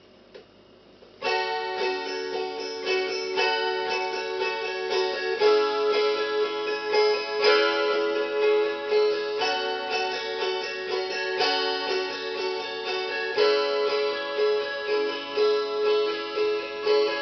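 Russian gusli played solo: plucked strings ringing over one another in repeating chord patterns, starting about a second in.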